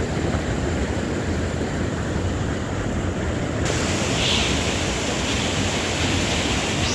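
Steady rushing of a waterfall, an even wash of water noise; the hiss turns brighter abruptly about halfway through.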